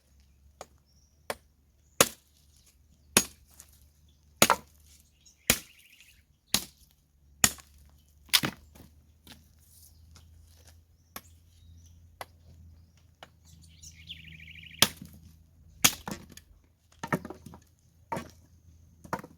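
Sharp hammer blows on a steel point chisel driven into a stone block, about one a second with a few pauses, as a cut is made to split it.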